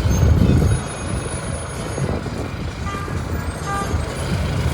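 City street traffic: a heavy vehicle's engine running with a low rumble, loudest in the first second, and a few short high beeps about three and a half seconds in.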